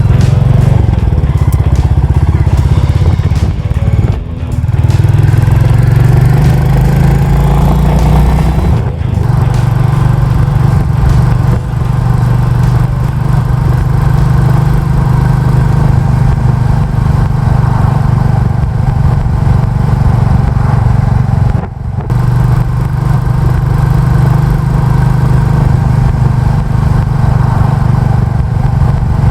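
Royal Enfield Classic 350's single-cylinder engine and exhaust running under way on a ride. The note dips briefly twice as the throttle is closed, about four seconds in and again a little past twenty seconds, and climbs steadily in pitch as the bike picks up speed after the first dip.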